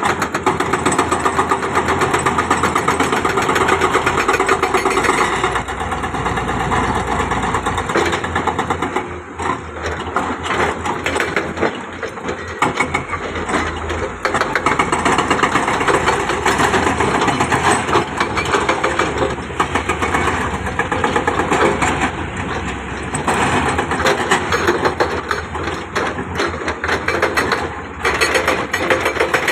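Diesel engine of heavy construction machinery running with a fast, even rattle, its level rising and dipping every few seconds as it works.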